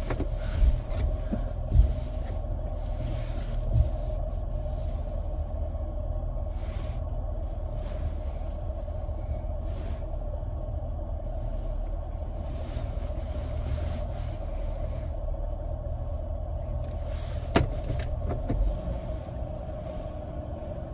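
A 2006 Mercury Grand Marquis's V8 idling, heard inside the cabin as a steady low rumble with a steady hum above it. A few brief knocks come about two and four seconds in and again near the end.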